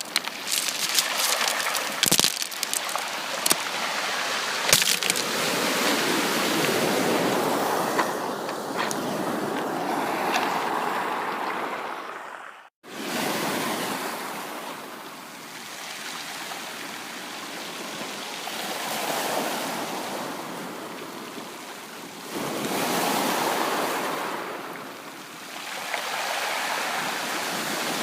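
Sea waves washing in and drawing back, a rushing that swells and eases every few seconds, with sharp crackling clicks over the first few seconds. The sound cuts out completely for a moment just under halfway through, then the surf comes back.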